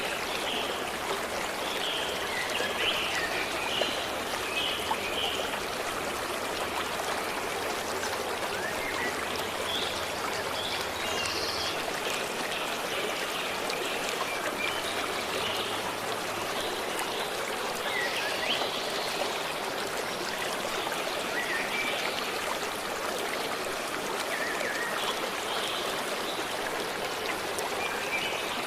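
A stream flowing and trickling steadily, with small birds chirping now and then over it.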